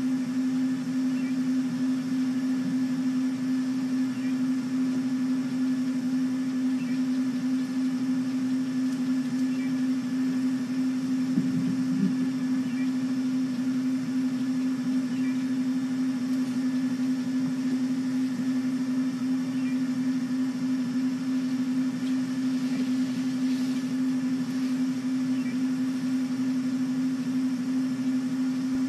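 A steady low hum that holds one pitch throughout, with faint short high chirps now and then.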